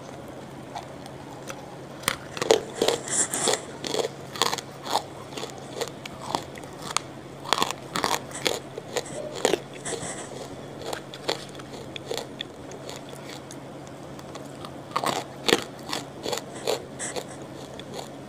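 Close-miked crunching and chewing as hard, brittle chunks are bitten and chewed, with dense sharp crunches in two spells and a quieter pause between them.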